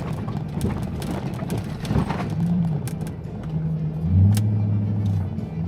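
Pickup truck driving on a dirt road: a steady rumble of tyres and engine with scattered sharp ticks of gravel. Background music with held bass notes comes up about four seconds in.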